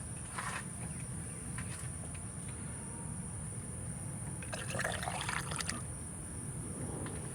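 Windshield washer fluid pouring from a jug through a funnel into the washer reservoir, trickling and gurgling as the tank fills, with a louder gurgling splash for about a second midway.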